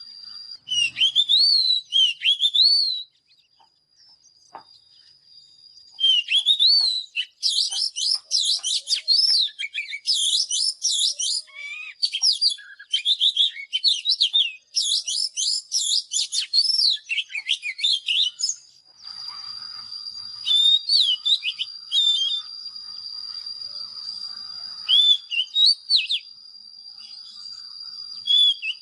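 Oriental magpie-robin singing: varied, loud whistled phrases that glide up and down. The song breaks off for a few seconds early on, then runs in a dense stream of notes, then thins to scattered phrases over a steady high-pitched tone.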